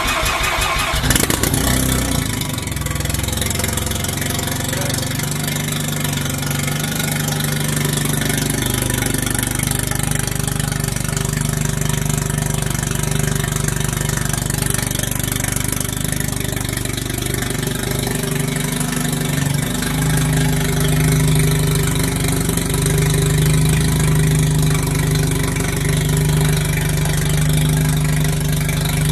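Mazda RX-7 FD3S's twin-rotor 13B rotary engine, freshly fitted with a single turbo, cranking briefly and catching about a second in on its first start, then idling loudly with no exhaust beyond a short makeshift downpipe.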